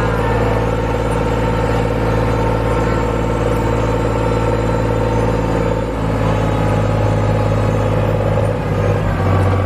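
Tractor engine running steadily under load, its pitch shifting about six seconds in and again near the end.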